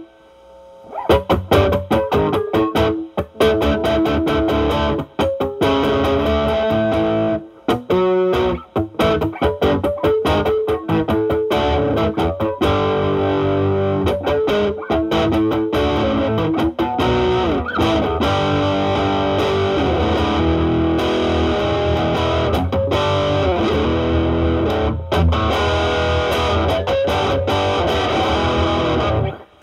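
Overdriven electric guitar: a Fender Stratocaster through a Ceriatone Centura (Klon Centaur clone) overdrive pedal into a Marshall Valvestate amp, playing improvised blues lead lines with string bends. The playing breaks off briefly about eight seconds in and stops just before the end.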